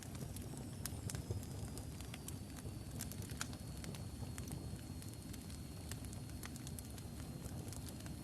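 Wood logs burning in a fireplace: irregular sharp crackles and pops over a steady low rumble of flame. A faint thin high whistle runs underneath.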